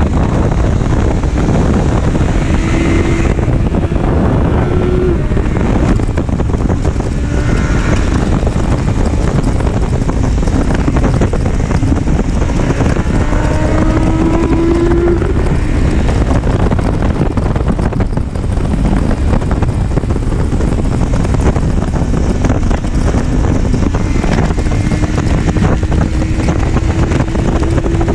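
Motorcycle engine accelerating through curves, its pitch rising several times, under heavy wind noise on the microphone.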